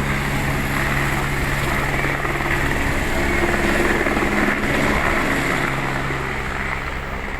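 A helicopter's rotor and turbine running close by, a steady heavy beat and whine. It grows a little louder to a peak about four seconds in, then eases off.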